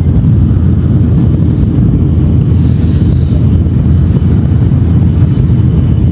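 Steady low rumble of a Shinkansen bullet train running at speed, heard inside the passenger cabin.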